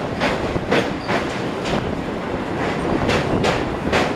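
A MEDHA three-phase electric multiple unit train running over a steel truss bridge, heard loud from an open doorway: continuous wheel-and-rail noise with a sharp surge of noise every half second or so.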